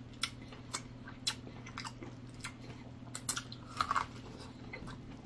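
Close-up mouth sounds of eating: irregular wet clicks and lip smacks from chewing, with a quick cluster about three to four seconds in, over a low steady hum.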